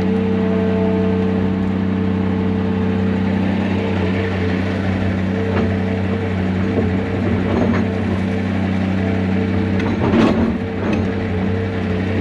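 Heavy diesel engine of a John Deere 250G LCR excavator running steadily under working load, with a few knocks and cracks about ten seconds in.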